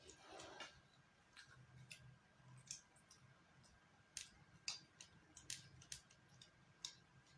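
Faint eating sounds: soft irregular clicks and ticks of a meal being eaten, about a dozen spread unevenly, over a faint low hum.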